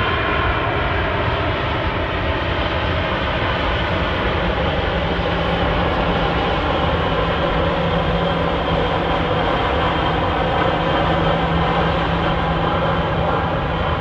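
Jet airliner engines running loudly and steadily, a dense rushing noise with several whining tones that drift slowly in pitch, and a low hum joining about five seconds in.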